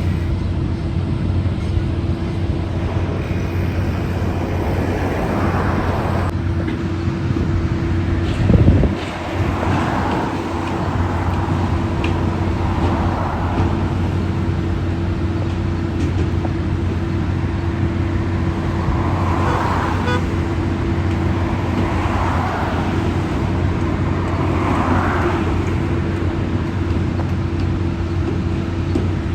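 Road traffic: a steady low hum, with vehicles passing every few seconds and a brief loud rumble about eight and a half seconds in.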